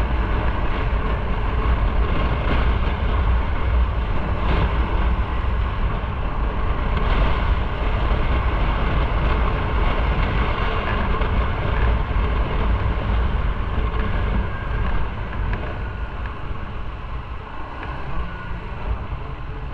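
Motorcycle on the move: wind buffeting the microphone over a steady engine and road drone, getting a little quieter in the last few seconds.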